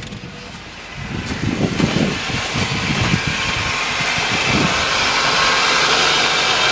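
2000 Toyota Camry's 2.2-litre four-cylinder idling after a jump start, with some irregular low thumps in the first few seconds. From about four and a half seconds in, a steady rushing engine-bay noise with fan-like hiss grows louder and holds.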